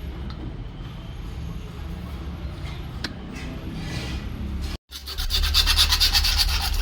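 Fast rhythmic rasping, loud, starting just after a brief break about five seconds in, over a steady low hum; before the break only faint rubbing.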